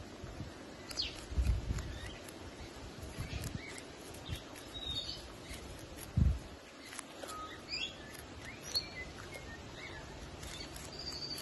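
Small birds chirping now and then over a low outdoor background, with a few dull low thumps, the loudest about six seconds in.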